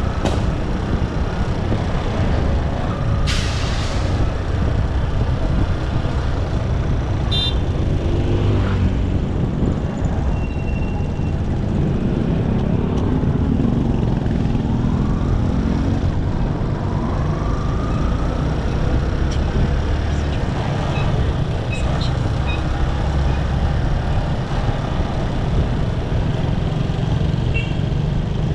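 Motorcycle engine running under way with road and wind noise and passing traffic, the engine note rising a few times as it picks up speed. A short hiss about three and a half seconds in.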